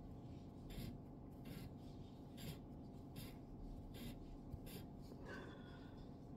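Steel wool rubbing the steel blade of a straight razor near its tip, in faint, short strokes about one every 0.8 seconds, drawn away from the cutting edge to clean off tarnish.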